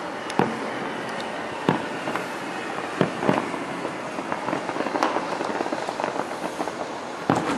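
Aerial fireworks shells bursting: a series of sharp bangs, the loudest near the middle and near the end, with a stretch of rapid crackling in between. A steady background hiss runs underneath.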